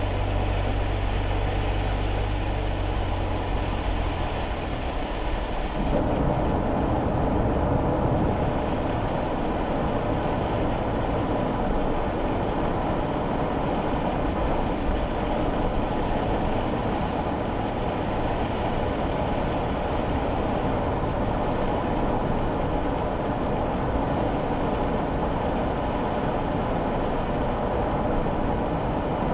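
Cabin noise inside a kei car: the small engine hums steadily at first, then about five seconds in the car moves off and a steady rumble of tyre and road noise takes over.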